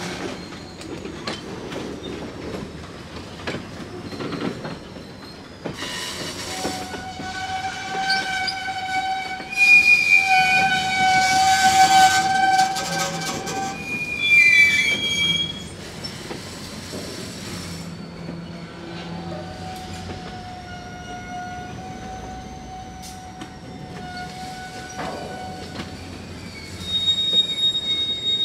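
Freight cars (tank cars and a covered hopper) rolling past on jointed track, the wheels rumbling and squealing against the rails. The squeal is a cluster of steady high tones: it is loudest about ten to thirteen seconds in and comes back more faintly later.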